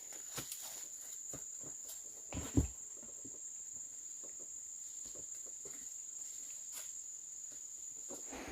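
An insect drones steadily at one high pitch, with scattered light knocks and a louder thump about two and a half seconds in.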